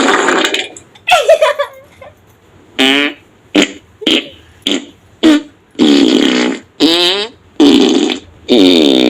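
A rapid series of about a dozen comedic fart sound effects, some short and some drawn out, several with a wavering pitch.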